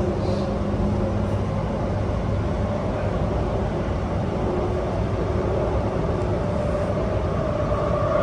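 SMRT R151 metro train running between stations, heard from inside the car: a steady rumble with a few steady motor tones, a higher hum growing stronger near the end.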